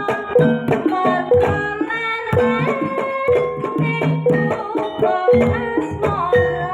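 Jaranan folk music: hand drums beating a busy rhythm under a melodic line of held pitched notes.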